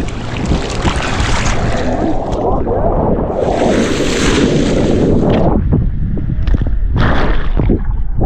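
Loud wind rushing and buffeting over the microphone, with a few sharp knocks in the last few seconds.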